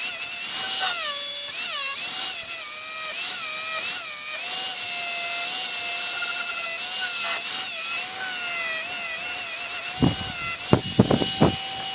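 A power tool spinning a twist-knot wire wheel against steel, stripping paint off a door frame to prepare it for welding. The motor's whine dips in pitch and recovers again and again as the wheel is pressed into the metal, over a steady harsh hiss.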